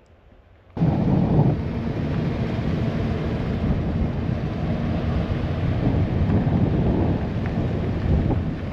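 Wind buffeting the camera's microphone: a loud, rough rumble that starts suddenly about a second in and stays dense and unsteady.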